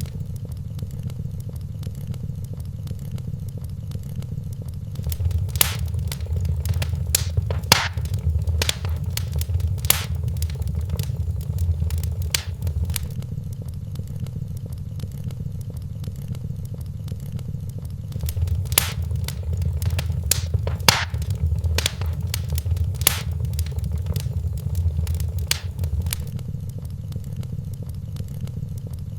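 Wood fire crackling in a fireplace: scattered sharp pops and snaps over a steady low rumble of the flames, with two busier spells of crackling.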